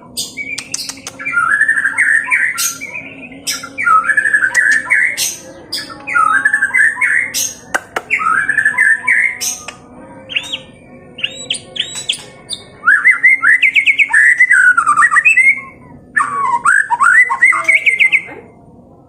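White-rumped shama (murai batu) singing in its fighting style, the aggressive territorial song display. Fast, sweeping phrases mixed with sharp clicks and high whistled notes come in short bursts about once a second, then in two longer, louder bursts in the second half.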